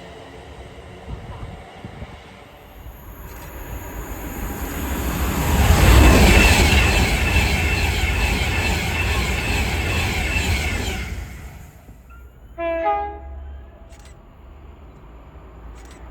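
A train passes through the station. Rumbling and rushing noise builds over a few seconds, is loudest about six seconds in, holds for about five seconds, then dies away. About two seconds later comes a brief pitched toot.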